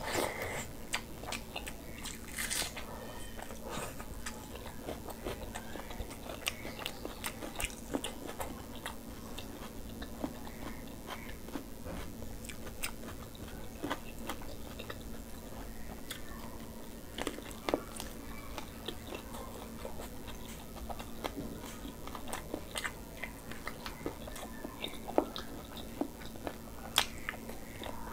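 A person chewing and biting mouthfuls of rice, curry and meat eaten by hand, close-miked. There are frequent short wet mouth clicks and smacks throughout.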